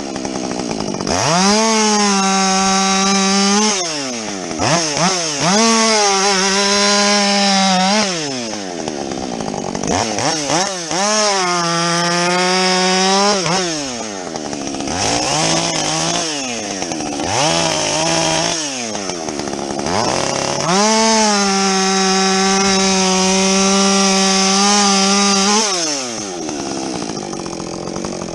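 Husqvarna 562XP two-stroke chainsaw with a modified muffler, revved to full throttle and held there through about five cuts of a few seconds each while bucking a felled log, the engine pitch falling back between cuts.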